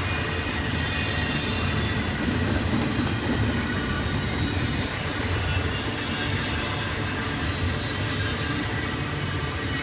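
Double-stack container well cars of a freight train rolling past: a steady rumble of steel wheels on rail, with a faint thin high wheel squeal over it.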